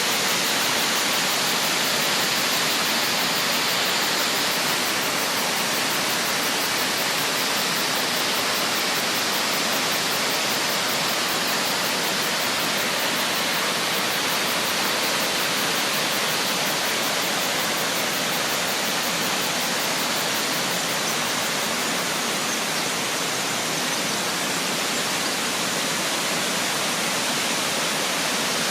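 A steady rush of running creek water, even and unbroken.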